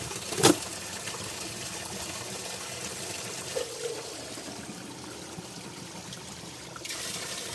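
Water running and trickling steadily, with one short sharp hit about half a second in and the flow getting louder near the end.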